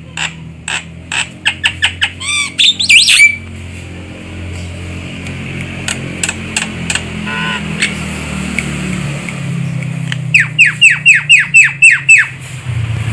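Javan myna calling: sharp clicks and squawks, a brief warble, then near the end a quick run of about nine downward-sliding whistled notes, about five a second. A steady low hum runs underneath.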